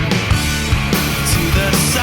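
Loud rock band music with distorted electric guitars, bass and drums playing a steady beat.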